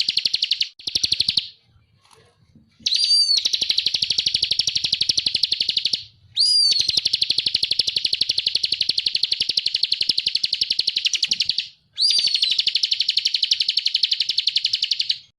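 Bar-winged prinia (ciblek) calling in long, fast rattling trills of high, even ticks. Each trill opens with a short whistled note that rises and falls. There are five trills, the later ones several seconds long, with brief pauses between them.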